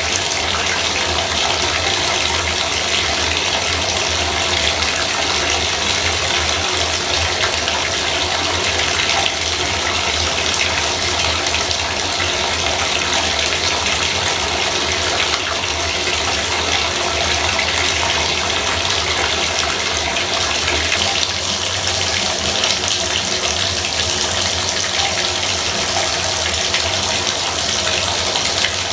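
Bathtub faucet running at a steady full flow, water pouring and splashing into the tub.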